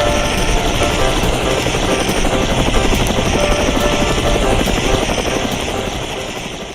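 Helicopter sound effect: steady rotor chop and engine noise, fading away near the end.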